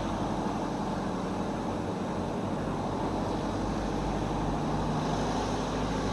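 Car engine running steadily at low speed, with even tyre and road noise, heard from inside the cabin.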